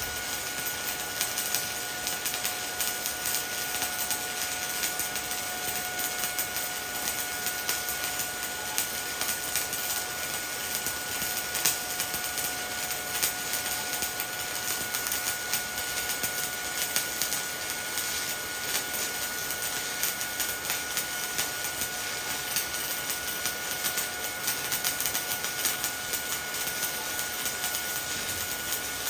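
Shielded metal arc (stick) welding with a 1/8-inch E7018 electrode at 120 amps, overhead: the arc crackles and fizzes steadily and evenly, a sign of a stable arc being held on the cap pass. A faint steady high tone runs underneath.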